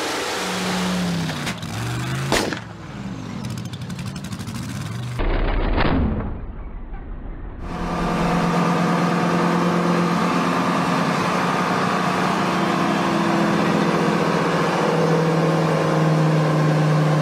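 Engines run at full throttle on dynamometers, spliced together: a car engine revving hard with one sharp bang about two and a half seconds in, as the engine lets go. After a cut there is a heavy low engine sound, and from about eight seconds on a diesel pickup's engine is held at steady high revs on the dyno.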